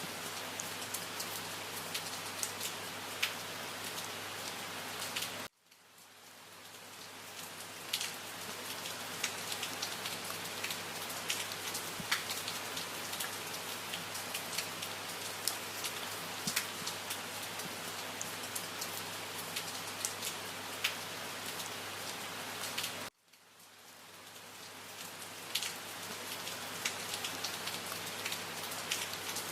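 Steady rain falling, with single drops ticking distinctly over the wash. It cuts out suddenly twice, about five seconds in and again about 23 seconds in, each time fading back up over a couple of seconds.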